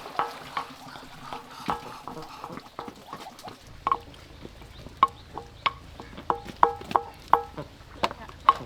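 Cooking utensils knocking against a hard vessel in irregular taps, each ringing briefly, the taps coming faster in the second half.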